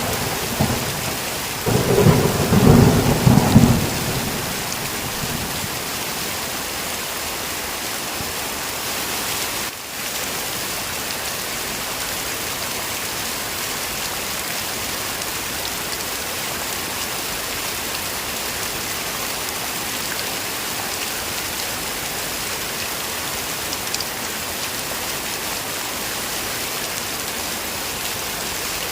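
Heavy rain falling steadily, with a low rumble of thunder in the first few seconds that dies away about four seconds in.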